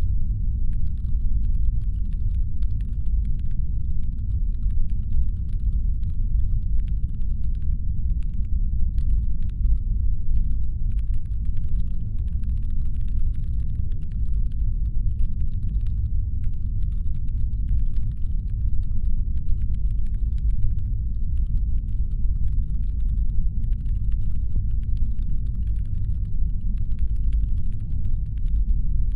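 Deep, steady brown-noise rumble standing in for a spaceship's engine hum, with faint irregular clicking scattered above it.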